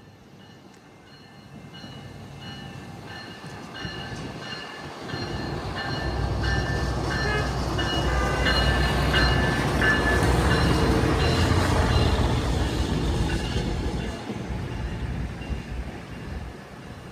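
CN 1501, a Budd RDC-1 self-propelled rail car used as a track inspection car, passing close by on the rails. A low rumble builds as it approaches, with a few thin high tones, is loudest for several seconds in the middle, then fades as it moves away.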